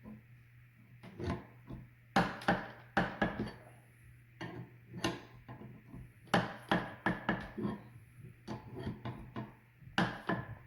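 Irregular sharp knocks and clicks of hand tools on metal, one or two a second, as a new bushing is worked into a leaf spring shackle without a press.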